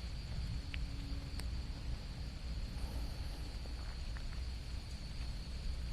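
Steady high-pitched drone of an insect chorus over a constant low rumble, with a few faint clicks.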